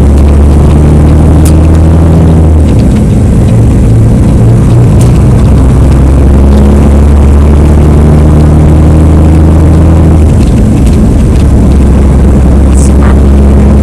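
Heavy truck's diesel engine running under way, a loud steady low drone whose pitch changes about 3 seconds in and again about 10 seconds in.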